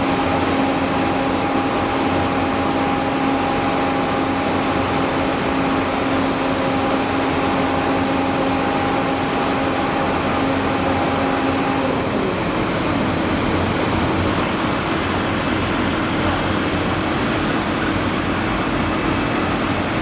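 Steady, loud machine noise with an engine-like hum; the hum's pitch steps slightly higher about twelve seconds in.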